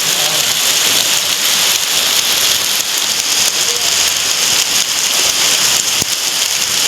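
Heavy rain pouring down: a loud, dense, steady hiss.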